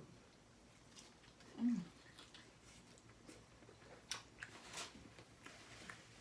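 Quiet, close-up mouth sounds of eating: scattered wet smacks and chewing clicks, with one brief low hum about a second and a half in.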